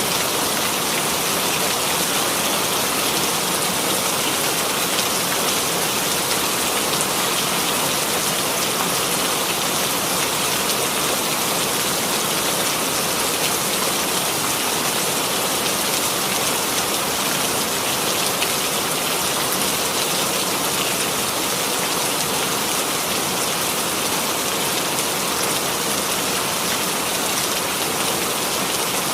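Steady rainfall, an even hiss of rain pattering on a surface, without change.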